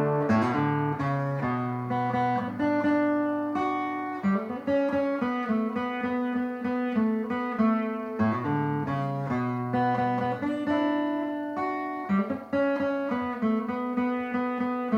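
Acoustic guitar playing an instrumental interlude: a steady run of plucked and strummed notes over a moving bass line.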